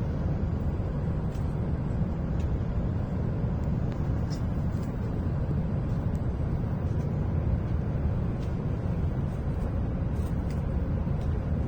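Steady low rumble of a W7 series Shinkansen train heard from inside the passenger cabin as it runs, with faint ticks now and then.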